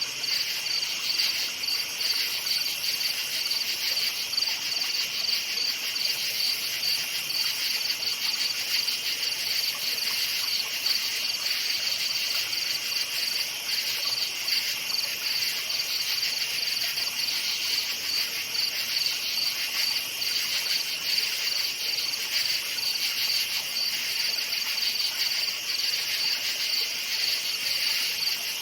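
Many crickets chirping together at night, a steady, dense, high-pitched pulsing chorus that does not let up.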